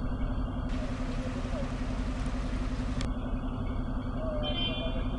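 A car running, a steady low engine and road rumble with a constant hum.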